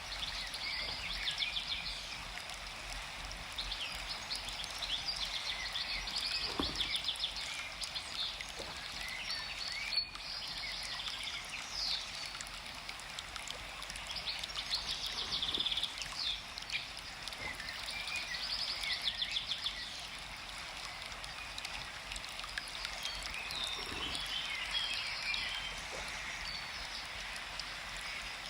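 Forest ambience: birds chirping and trilling again and again over a steady rush of flowing water.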